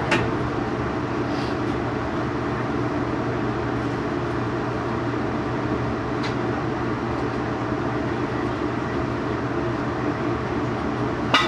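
Steady hum inside the carriage of a TEMU2000 Puyuma electric train standing at an underground platform, its onboard equipment running while the train is stopped. Two short knocks sound, one just after the start and one near the end.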